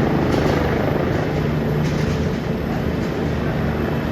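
Aircraft engine noise running steadily: a constant low hum under a broad, even rush.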